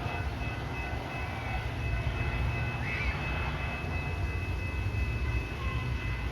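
Train running steadily on the line, a continuous low rumble with faint steady high-pitched tones above it.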